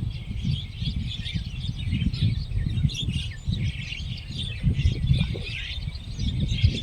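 A flock of Javan mynas (white-vented mynas) calling together, a dense, continuous chatter of overlapping chirps and short whistles, over a low rumbling noise.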